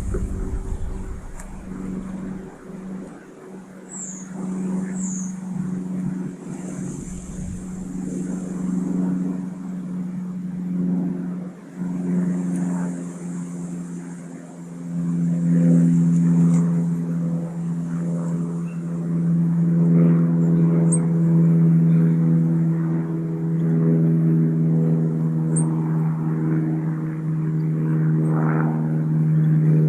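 A steady, droning engine hum that grows louder about halfway through, with a few faint, high bird chirps over it.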